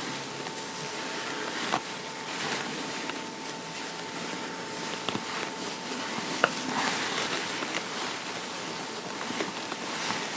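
Fabric rustling and brushing with scattered small clicks as clothing is handled and pinned, over a thin steady hum.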